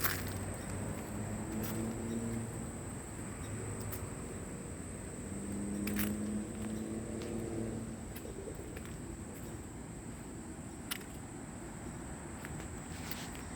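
Steady high-pitched drone of late-summer insects, with the low hum of passing traffic swelling twice and a few light clicks.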